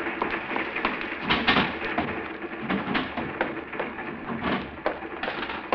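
Radio-drama sound effect of a train under way: a steady rattling rumble with sharper knocks every second or so.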